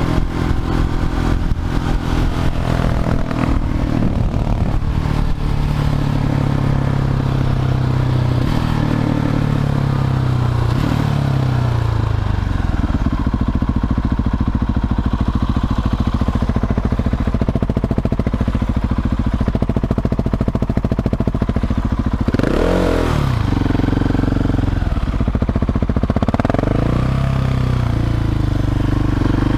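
Husqvarna 701 Supermoto's single-cylinder engine through a Leo Vince slip-on exhaust, running under way with its pitch rising and falling as the throttle changes, and a quick rev up and back down about 23 seconds in.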